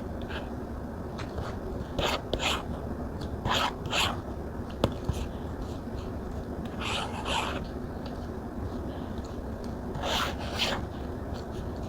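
Stylus pen nib scratching across a tablet screen in short strokes, mostly in pairs, with one sharp tap about five seconds in.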